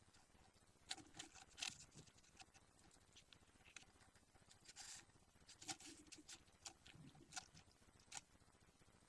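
Budgie chicks moving about: faint, scattered scratches and clicks, with a short rustle about five seconds in.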